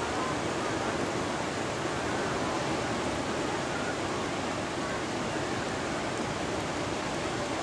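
Ocean surf: a steady, unbroken wash of breaking waves, with no single crash standing out.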